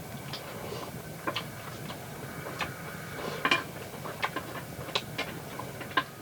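About a dozen light, sharp clicks and taps at irregular intervals, over a faint steady hum.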